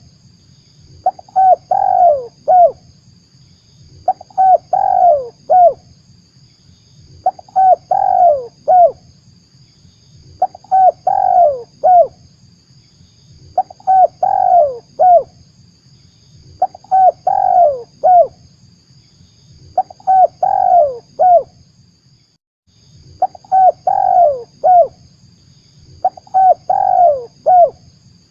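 Spotted dove (tekukur) cooing, played as a trapping lure call: a phrase of three or four falling coos repeated about every three seconds, nine times. A faint steady high whine runs underneath, with a brief break about two-thirds of the way in.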